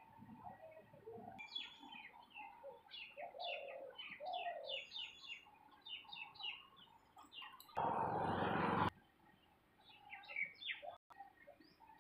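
Small birds chirping rapidly in a dense run of short, high calls, with a few lower calls among them. About eight seconds in, a loud rushing noise lasts about a second and cuts off abruptly.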